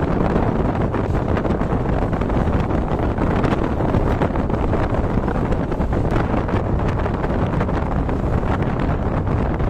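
Wind buffeting the microphone held out of a moving passenger train, over the steady running rumble of the coaches on the rails.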